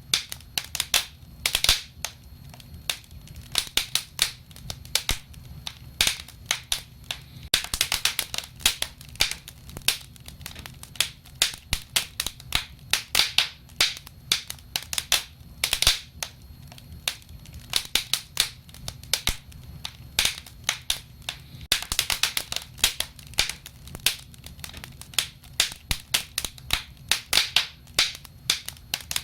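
Wood fire burning, crackling and popping in rapid irregular snaps over a low steady rumble.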